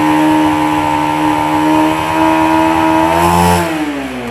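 Motorcycle engine held at steady raised revs, then the throttle is released near the end and the revs fall back toward idle. The engine is being revved to check the charging voltage at the battery.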